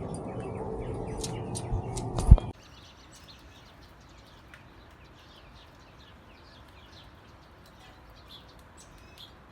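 A steady outdoor rumble with a few clicks, ending in a sharp thump about two and a half seconds in. After that, faint birds chirping over and over, with short high chirps.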